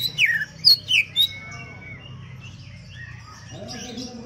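Green leafbird (cucak ijo) singing: a quick run of loud, sharp falling whistles in the first second or so, then softer, longer whistled notes.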